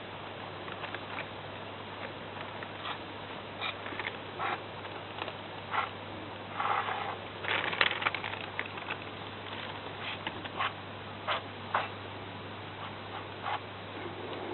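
Aerosol air-conditioner cleaning spray hissing out in short irregular bursts, with a longer spray about halfway through, amid scattered clicks and crackles, over a steady low hum.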